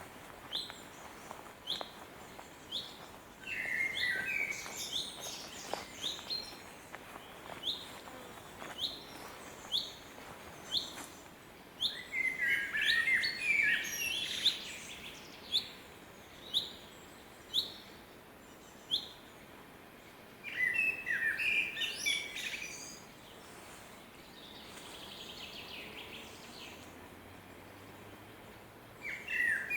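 Songbirds singing in a forest. One bird repeats a short, high call about once a second, while another bird sings busy, warbling phrases three times, each lasting a couple of seconds.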